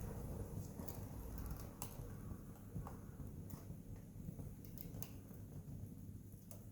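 Wood fire crackling, with scattered sharp pops about once a second over a faint low rumble.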